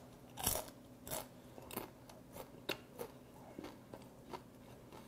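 Close-miked chewing of a mouthful of steamed bear shrimp, the hard shell crunching in short, crisp clicks about every half second.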